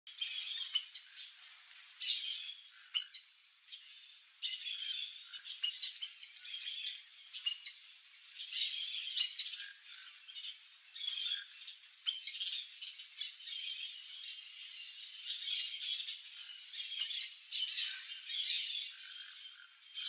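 Birds calling in a dense run of short, high-pitched chirps and squeaky calls, overlapping one another without a break.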